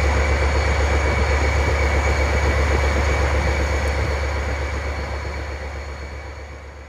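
Class 52 'Western' diesel-hydraulic locomotive's twin Maybach V12 diesel engines running steadily, a deep drone with high, steady whistling tones above it. The sound fades away over the last couple of seconds.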